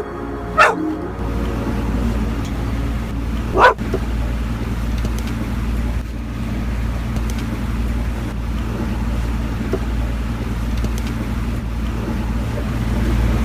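A dog barks twice, about three seconds apart, over the steady low hum of a boat's engine running.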